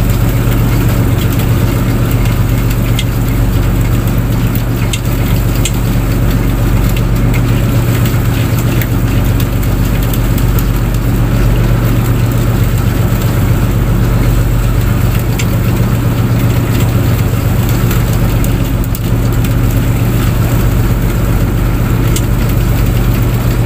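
Fishing boat's engine running steadily, a constant low drone with an even rumble and hiss over it.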